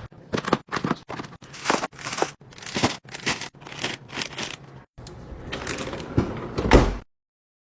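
Food packaging being handled during fridge restocking: a quick run of short rustling, crinkling strokes, cutting off abruptly about seven seconds in.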